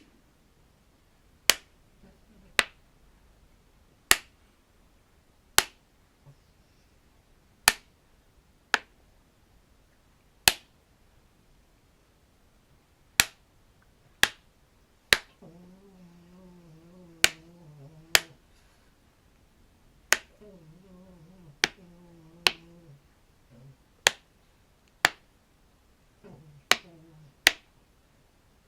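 Sharp single pops from a collapsible plastic tube being snapped, about twenty of them at an uneven pace, roughly one every one to two seconds. From about halfway through, a low wavering hum comes and goes beneath the pops.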